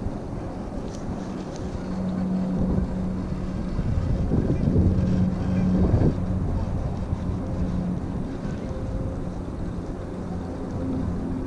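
Blizzard wind buffeting the microphone: a dense low rumble that swells about four to six seconds in, with a steady low hum running underneath.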